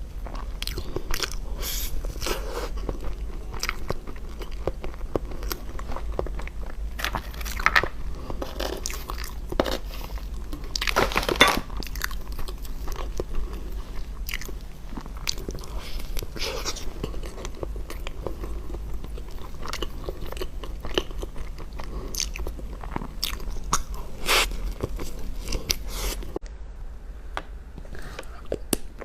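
Close-up chewing and biting into crunchy food, with dense crackly crunches and wet mouth sounds, a louder crunch about eleven seconds in.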